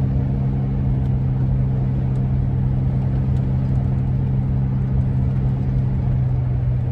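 Driving noise inside the cab of a 2001 Ford E-350 van at speed: road rumble under a steady, low droning hum with overtones.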